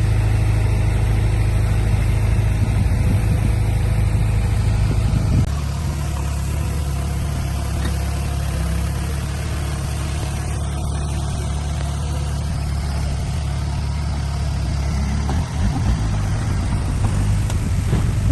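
Heavy diesel engine running steadily with a low, even note; about five seconds in it eases off a little and settles at a slightly lower level.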